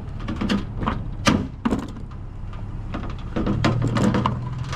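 Scrap being handled at a curbside pile: a string of scattered knocks and clunks, over the steady low hum of an idling truck engine that grows a little louder about three and a half seconds in.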